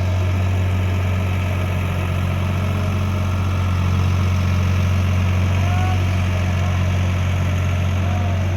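Diesel engine of a tractor or backhoe idling steadily, a low even hum with no change in speed.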